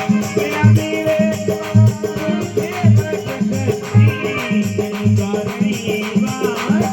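Instrumental passage of a Marwari bhajan: a steady low drum beat with rattling hand percussion and a wavering melody line.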